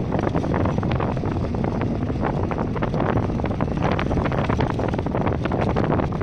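Waterfall: a loud, steady rush of falling, splashing water.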